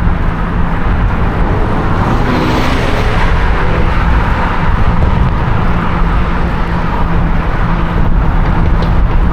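Wind rushing over the microphone of a moving e-bike, mixed with road and traffic noise, with a steady low hum underneath. A brief rising tone comes in about two seconds in.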